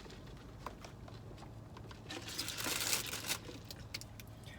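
Takeout food packaging rustling and crinkling, with a few light clicks and taps; the rustle is loudest about two to three seconds in. A faint steady low hum runs underneath.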